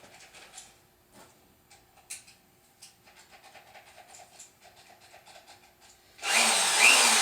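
Faint clicks and handling noise, then about six seconds in an electric drill starts up loudly, spinning a ball hone in a cast iron engine's cam gear shaft bore, its whine dipping in pitch as it runs.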